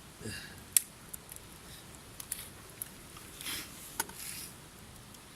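Lid of a rice pot being opened to check the rice: a few sharp metallic clicks and clinks, the loudest about a second in, and a soft hiss a little past the middle.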